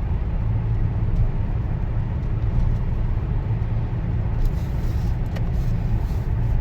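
Car driving along a road: a steady low rumble of engine and tyre noise heard from inside the cabin.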